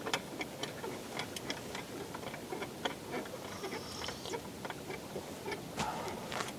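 Irregular sharp crackles and clicks, several a second, over a steady low hiss.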